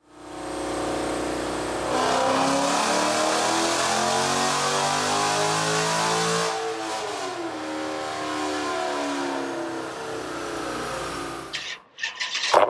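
Dodge Challenger SRT8's Hemi V8 running on a cold start. Its speed steps up about two seconds in and wavers high, then drops a few seconds later to a lower, steady idle. A few sharp clatters come near the end.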